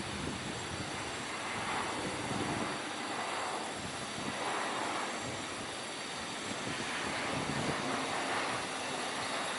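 Jet airliner engines heard as a steady rushing noise that swells and eases a few times.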